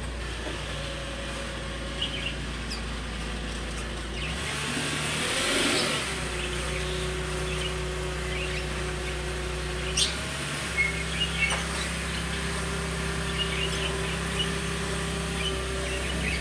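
Pet lovebirds giving short, scattered chirps over a steady mechanical hum that shifts pitch a couple of times, with a whoosh swelling and fading about five seconds in.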